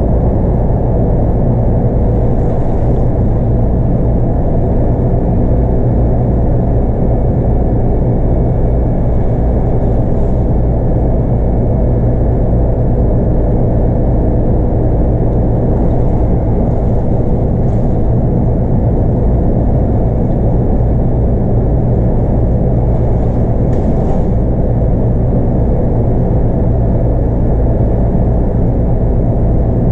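Scania K230UB bus under way, heard from inside the cabin: its 8.9-litre five-cylinder Scania DC9 diesel runs steadily over a loud, even road rumble.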